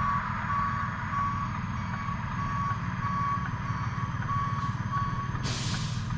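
Truck's reversing alarm beeping steadily, about one and a half beeps a second, over a low idling engine. A short, loud hiss cuts in near the end.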